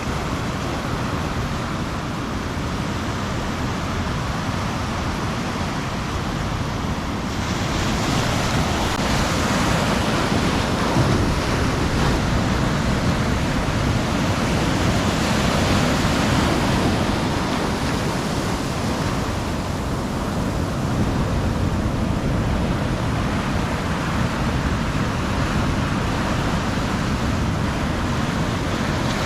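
Ocean surf breaking and washing on a beach: a continuous rush that surges as a wave breaks about seven seconds in, then swells and eases with the following waves.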